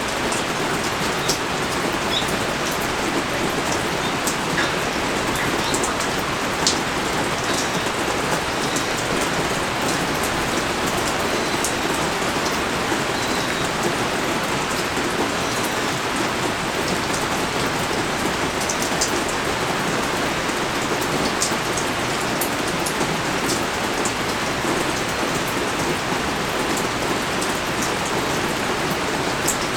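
Heavy rain pouring down steadily, with many sharp clicks of single drops landing close by.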